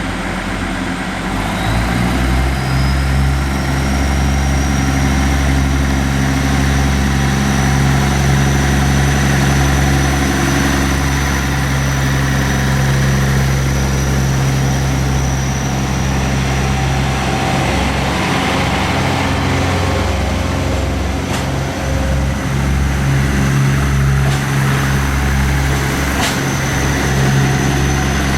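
Diesel engines of a DR3000 diesel multiple unit idling steadily, with a deep hum whose note steps up slightly about a second and a half in. A thin, steady high whine runs above it, and two sharp clicks come near the end.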